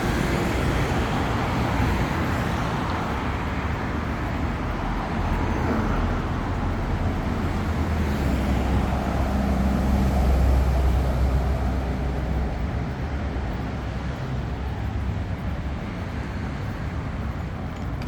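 City street traffic: vehicles running past, with a low rumble that builds to its loudest about ten seconds in, then fades.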